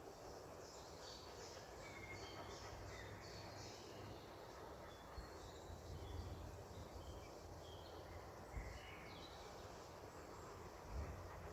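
Faint birdsong: several birds giving short, scattered chirps and twitters over a steady low background rumble.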